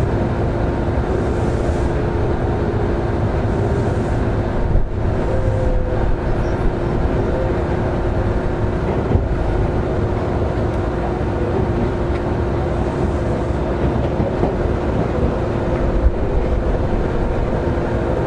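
Semboku 7020 series electric train running at steady speed, heard from inside the car: a continuous rumble of wheels on rail with a steady hum over it.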